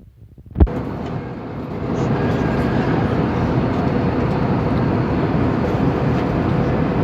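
Steady airflow and engine noise inside the cabin of an Airbus A320neo airliner in flight. A sharp knock comes about half a second in, and the noise rises to a steady level by about two seconds in.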